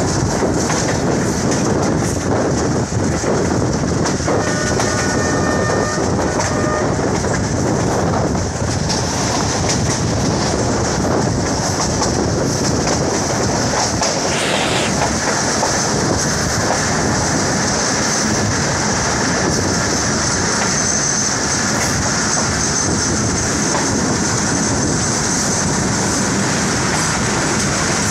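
Passenger train coaches running at speed on the track, heard from an open coach window: a steady, loud rumble and rattle of wheels on rails.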